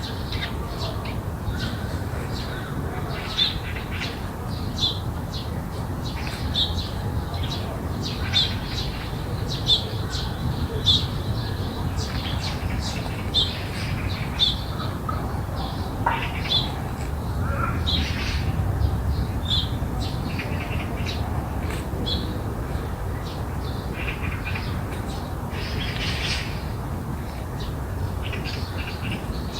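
Birds calling in a garden: short high calls repeating about every second and a half, with a cluster of longer calls around the middle and near the end. A steady low rumble runs underneath.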